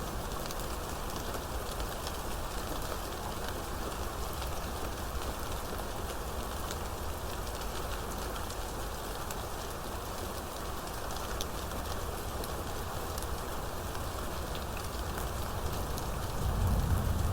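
Steady heavy rain falling, with scattered individual drop ticks. A low rumble swells near the end.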